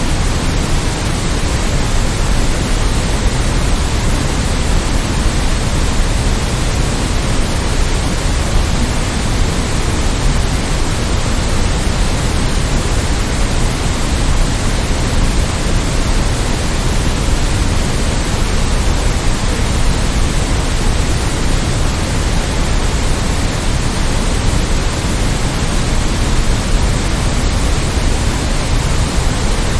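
Steady white noise: a continuous, unchanging hiss spread across the whole range, fuller in the low end.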